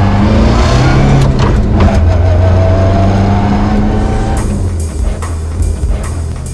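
Rally car engine running hard, heard from inside the cabin with music laid over it. About four seconds in, the engine sound drops back and a steady drum beat takes over.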